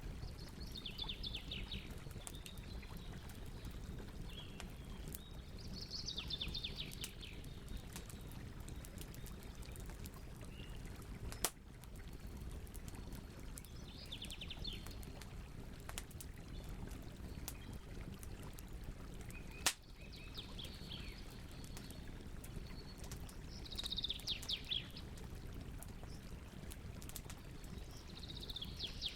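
Campfire burning with a low rumble and scattered crackles, with two sharp, louder pops partway through. Over it, a bird sings short, rapid trilled phrases every few seconds.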